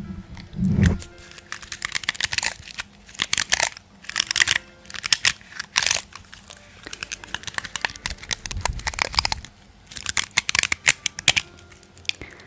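Close-up crinkling and tearing in irregular bursts, with a couple of low thumps, over faint background music.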